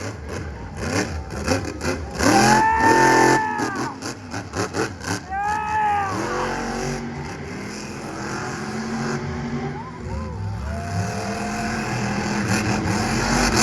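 Monster truck engines revving in three sharp blips, each rising and falling in pitch, with crackling pops among them. This gives way to engines running with slowly rising pitch.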